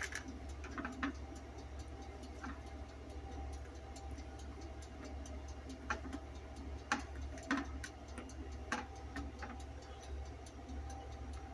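Quiet room with a steady low hum and light ticking, with a few louder clicks and taps scattered through it.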